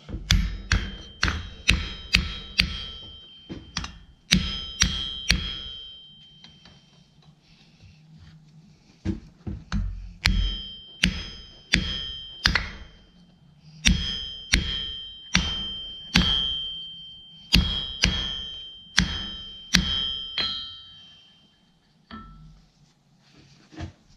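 Blacksmith's hammer striking hot steel on an anvil, runs of about two blows a second with a clear metallic ring after each, broken by pauses of a second or more between runs.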